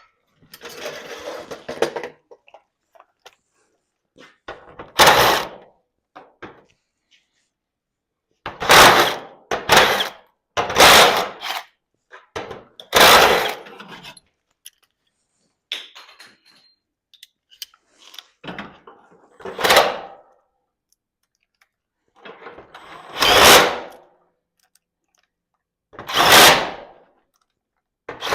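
Tool work on garage door hardware: about eight loud, short, separate noises, each under a second, with quiet gaps between them.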